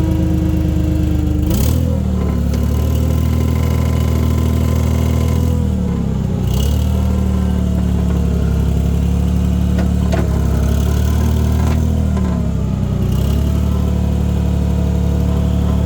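New Holland skid steer's diesel engine running steadily. Its speed dips and recovers three times, and a few sharp clicks sound in between.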